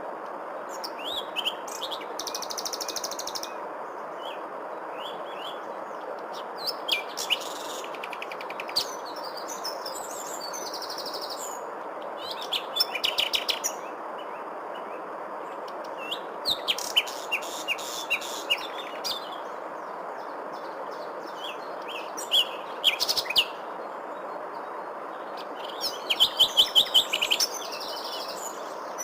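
Wild birds chirping and singing in short bursts of quick, repeated high notes, some trilled, over a steady background hiss. The loudest burst is a run of rapid chirps near the end.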